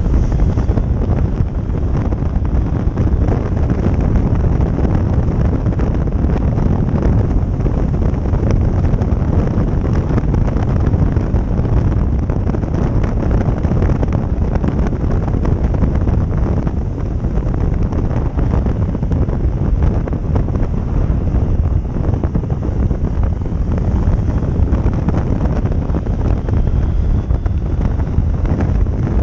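Steady, loud wind noise on the microphone of a motorcycle being ridden at speed, with the bike and road noise running underneath.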